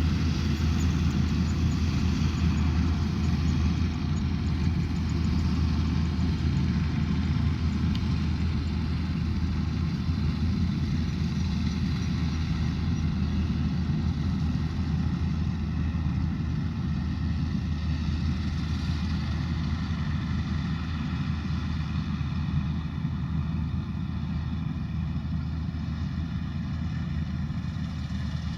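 Rice combine harvester running steadily, its engine giving an even note with a strong low hum, gradually getting a little quieter toward the end.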